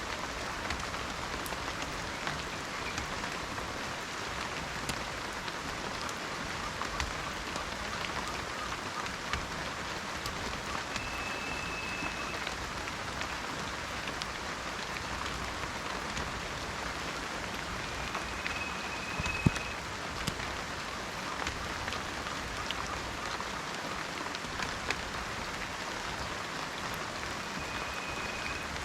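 Steady rain falling in a forest, with individual drops ticking close by and one sharper drop hit about two-thirds of the way through. A short, high, steady whistle sounds three times, roughly eight seconds apart.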